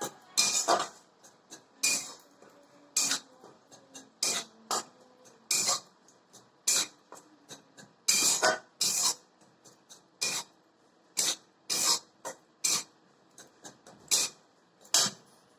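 Spatula scraping across a cooking pan in repeated sharp strokes, about one or two a second, as gram flour (besan) is stirred and roasted in it.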